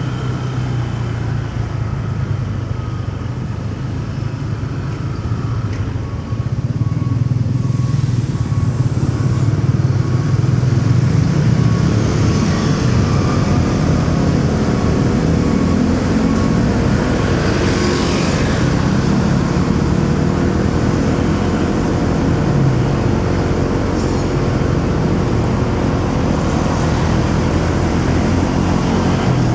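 Motorcycle engine running through city traffic, with other vehicles around. It gets louder about six seconds in, and its pitch rises and falls through the middle as the bike speeds up and slows.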